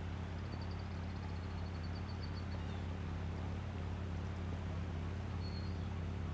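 Steady low hum under a haze of noise, with a bird's rapid, high chirping trill starting about half a second in and lasting some two seconds, and a short chirp near the end.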